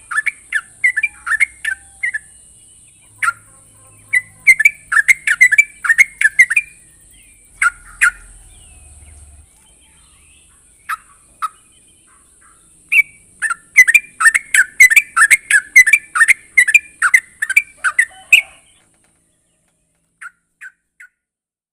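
Yellow-vented bulbul (trucuk) song: bursts of rapid, bubbling chattering notes, with a sparse pause in the middle and a dense run just after. A steady high hiss runs behind the birdsong and cuts off suddenly near the end, followed by three faint short notes.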